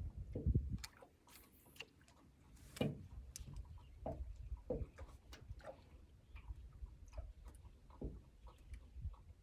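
Handling noise while fishing: scattered light clicks and soft knocks of tackle being worked, with a few firmer thuds, over a low rumble.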